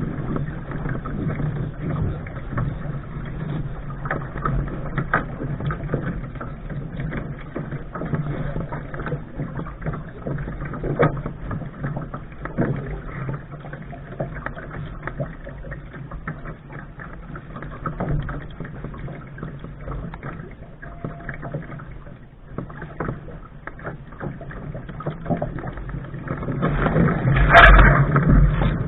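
Water sloshing and splashing against the hull of a Lark sailing dinghy under way, with small irregular knocks and wind on the microphone. A louder rush of wind and water comes near the end.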